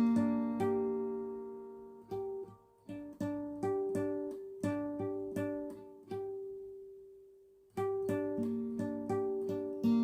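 Acoustic guitar picked note by note over a single chord, slowly and unevenly, each note left to ring. About six seconds in the picking stops while one note rings and fades, then it starts again near the end.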